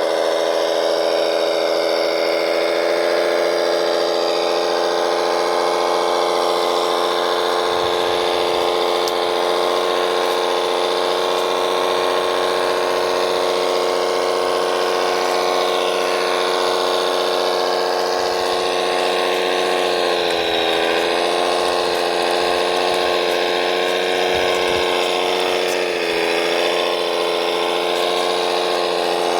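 A radio-controlled construction machine running with a steady mechanical whine. Its pitch dips briefly twice, about two-thirds of the way in and again near the end.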